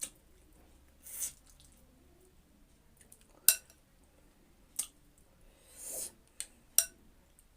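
A utensil clinking against a bowl four times, sharpest about halfway through, with two short slurps of hot chicken thukpa noodle soup, one early and one near the end.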